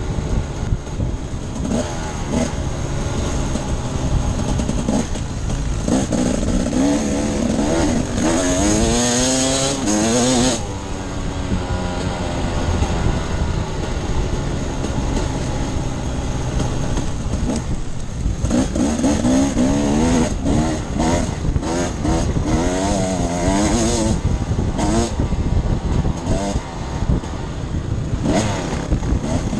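Off-road enduro motorcycle engine being ridden hard, revving up and down again and again over a constant heavy low rumble. The revving is clearest about six to ten seconds in and again from about eighteen to twenty-four seconds.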